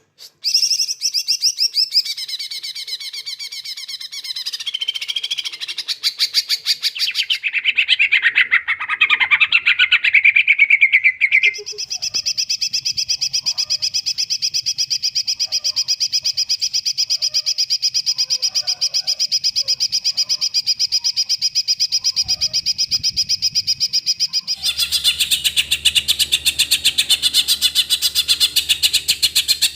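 Cucak ijo (green leafbird) singing a long string of very rapid, evenly pulsed high trills, the 'shots' of its song, switching to a new trill every few seconds, with a lower trill that dips and rises partway through. A low steady hum joins for the last few seconds.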